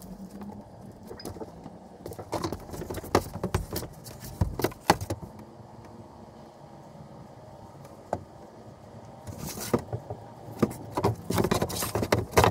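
Scattered knocks, clicks and clatter of wooden boards and tools being handled, with a short rush of noise about nine and a half seconds in and a busier run of knocks near the end.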